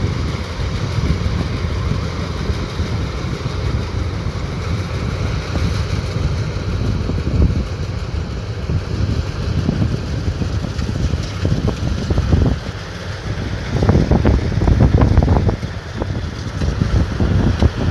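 Combine harvester running with a steady low rumble, with wind buffeting the microphone.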